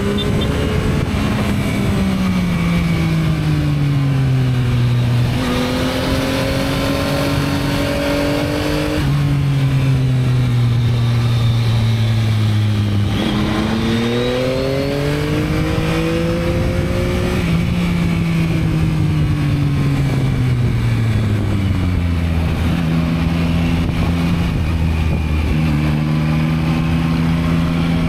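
Yamaha MT-09's 890 cc three-cylinder engine on the stock exhaust, heard from the bike while riding: the engine note falls off, shifts, climbs again on the throttle around the middle, then eases down and holds steady near the end, with a steady rush of wind noise under it.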